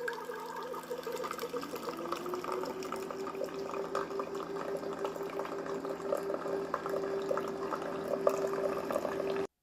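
Keurig single-serve coffee maker brewing: its pump hums steadily, the tone rising slightly about a second and a half in, over the gurgle and splutter of hot water filling the cup. It stops abruptly near the end.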